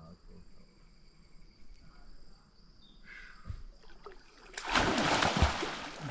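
A person plunging into cold water with one big splash about four and a half seconds in, the water washing and settling after it.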